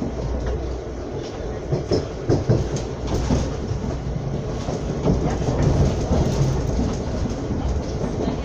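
Passenger train running at speed, heard from inside the carriage: a steady low rumble of wheels on track with scattered clacks, a few louder ones about two seconds in and again near five seconds.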